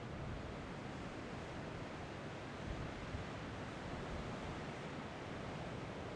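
Steady wind noise, an even rushing hiss with unsteady low buffeting on the microphone.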